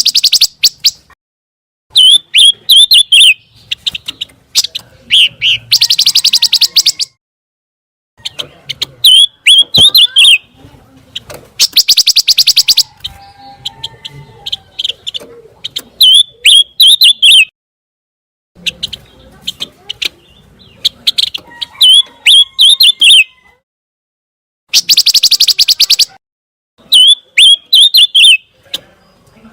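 Pancawarna bird singing: phrases of sharp, quick chirps alternate with rapid buzzy trills about a second long, with short pauses between phrases. The pattern repeats every few seconds.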